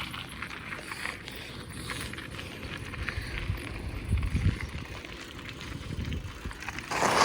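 Bicycle ridden along a dirt road: a steady low rumble of tyres and wind on the microphone, with scattered small rattles and clicks. A louder rushing burst comes near the end.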